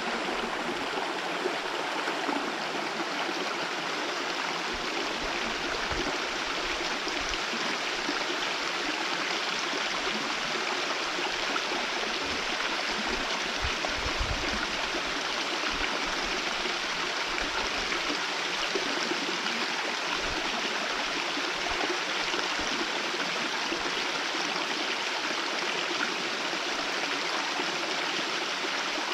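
Small waterfall with a very thin, low flow, its falling water making a steady rush, heard from some way off.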